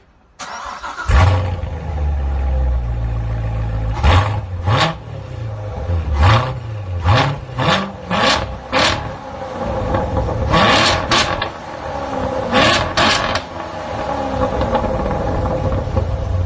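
Chevrolet Corvette C7's 6.2-litre V8 cranked by the starter, catching about a second in with a loud flare, then idling with a series of quick throttle blips, several in short bursts.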